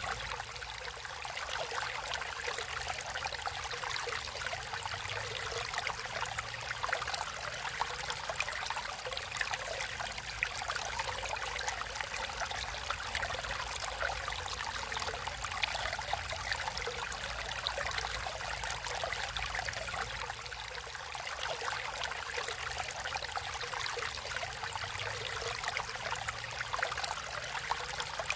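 Water in a natural stream flowing and trickling steadily, with a constant fine splashing.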